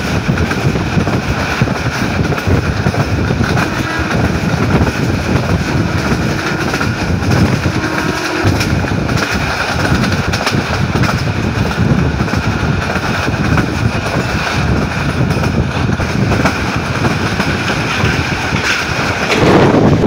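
Passenger train under way, heard from on board a coach: the steady running noise and rattle of the wheels on the rails. Near the end wind noise on the microphone grows.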